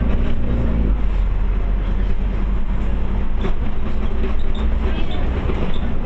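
Steady low rumble of a Scania OmniCity bus heard from inside the cabin, with engine and road noise and a few light clicks and rattles.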